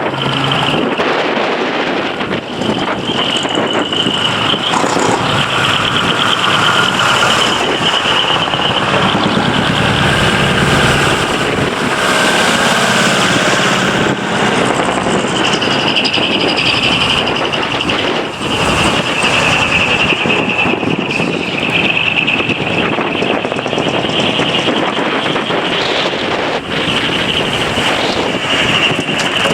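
Heavy trucks' diesel engines running as the trucks pull away one after another, with one passing loudest about ten seconds in.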